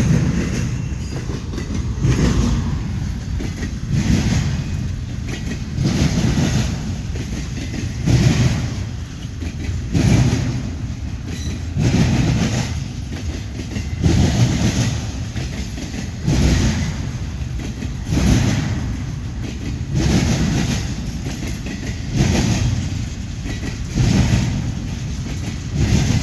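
CSX intermodal freight train's cars rolling past, the wheels clacking over the rails in a regular beat about every two seconds over a steady rumble.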